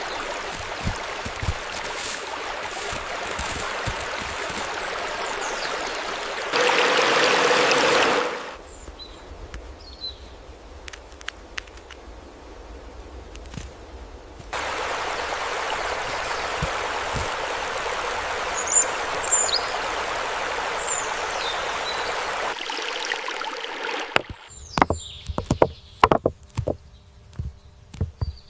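Rushing stream water that cuts abruptly between louder and quieter stretches, with a few short, high bird chirps over it. Near the end the water gives way to a run of sharp clicks and knocks.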